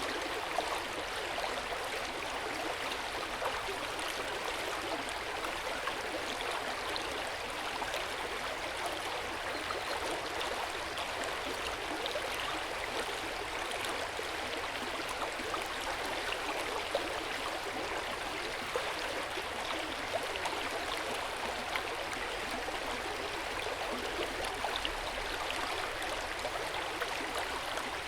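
Hot-spring water flowing steadily into an outdoor bath: a constant rushing splash with small scattered drips and splashes.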